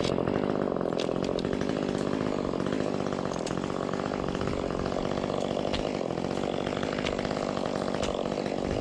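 Ported Echo 25T top-handle two-stroke chainsaw running steadily at an even engine speed.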